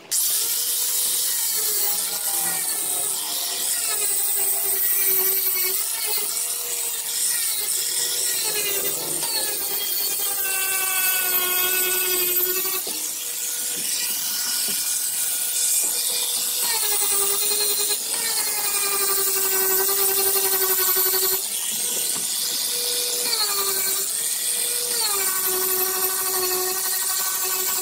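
Handheld power grinder running against fiberglass, its motor whine dipping in pitch again and again as it is pressed into the surface and eased off.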